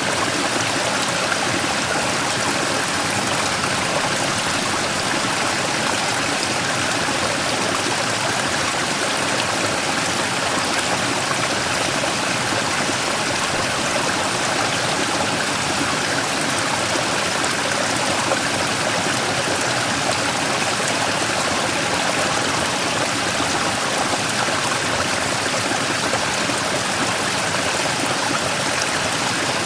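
Mountain stream flowing over and around a large rock, a steady rushing and splashing of water.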